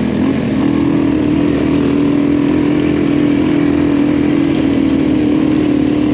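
Adventure motorcycle's engine running at a steady, even pace under way on a dirt track, its note rising slightly in the first half second and then holding constant.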